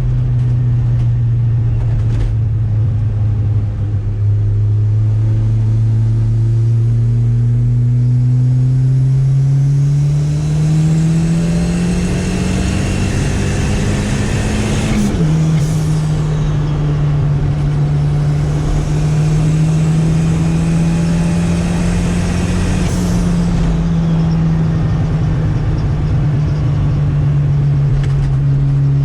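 Turbocharged Chevrolet Chevette engine running on the road, climbing steadily in revs through a gear for about fifteen seconds, dropping at a shift, then holding near-steady cruise. Underneath runs a new, worrying noise that the driver suspects is the turbo failing.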